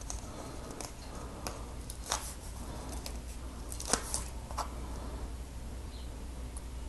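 Scattered light clicks and taps from small plastic Lego pieces being handled, the sharpest about two, four and four and a half seconds in, over a low steady hum.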